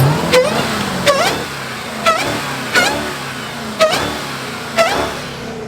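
Car engine being revved in a series of short throttle blips, about six of them roughly a second apart, each starting sharply.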